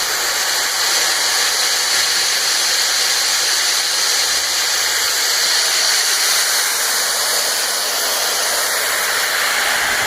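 High-pressure nitrogen rushing through a cold-room refrigeration circuit in a loud, steady hiss, purging out the 141B flushing solvent.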